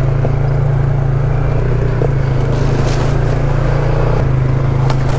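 ATV engine running steadily and close, its pitch shifting slightly a couple of times.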